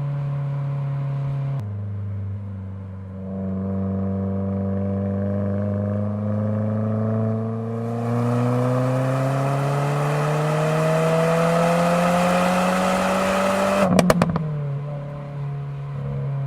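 2022 Subaru WRX's turbocharged 2.4-litre flat-four through a muffler-less ETS axle-back exhaust, accelerating under load. Engine pitch drops at a gear change near the start, then climbs steadily through a long pull. A quick burst of exhaust pops about 14 seconds in comes as the pitch falls at the next upshift.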